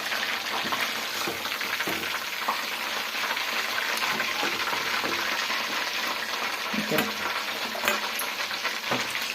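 Marinated chicken lollipops deep-frying in hot oil: a steady sizzle, with a few light clicks along the way.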